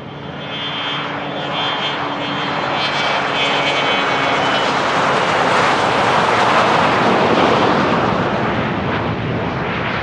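Business jet's turbofan engines passing on the runway: a whine over a dense rushing noise that swells to its loudest about two-thirds of the way through, then starts to fade.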